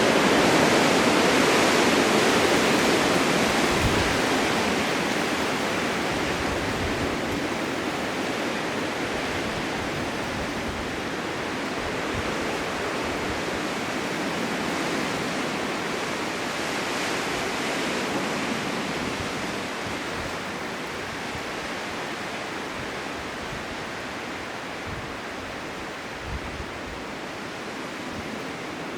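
Blizzard wind blowing as a steady rushing noise, strongest at first and slowly easing, with a swell in the middle and a few low buffets.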